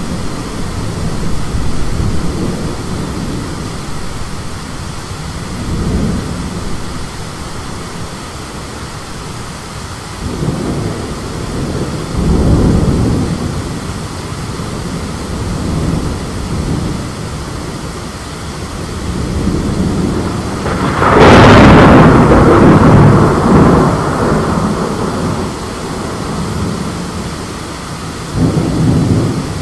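Thunderstorm with rain and gusting wind and low rolling thunder. About two-thirds of the way through comes a loud, sharp crack of close thunder that rumbles away over a few seconds.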